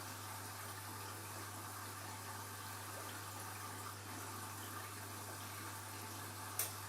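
Washing machine filling with water: a steady rush of water with a low hum underneath, and a single sharp click near the end.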